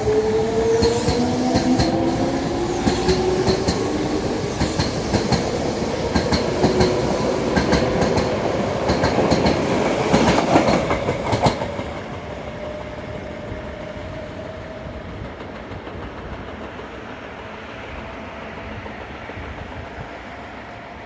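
Electric commuter train pulling out of the station: the traction motors give a rising whine as it picks up speed, and the wheels clack over the rail joints in a quickening run. About twelve seconds in the sound drops away, leaving a fading rumble as the train leaves.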